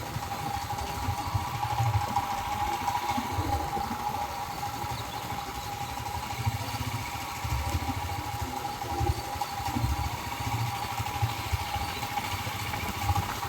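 Motorcycle engine running, with a steady high whine and uneven low rumbling.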